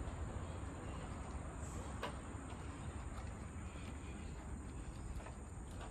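Steady high-pitched drone of forest insects, with a low rumble underneath and a few faint clicks.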